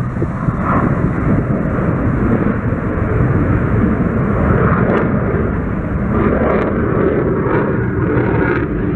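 Airplane flying over, a loud steady rumble that builds over the first second and then holds.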